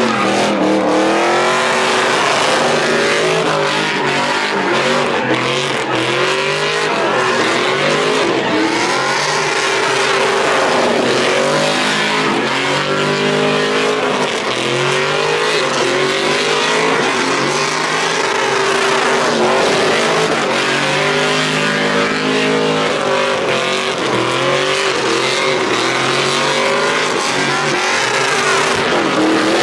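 Truck engine revving hard and repeatedly, its pitch climbing and dropping again and again over a constant noisy hiss.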